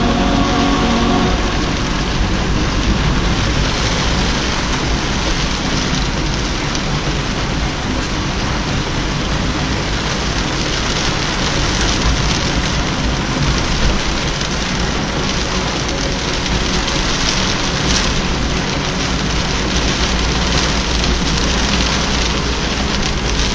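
Rain falling steadily: a dense, even hiss that does not let up.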